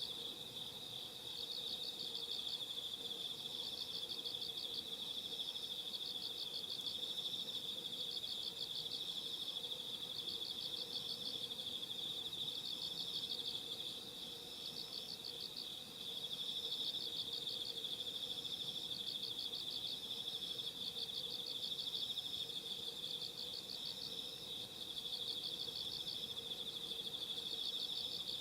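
Night insects singing in chorus: a continuous high trill, with a pulsed chirp just above it repeating about every one and a half seconds.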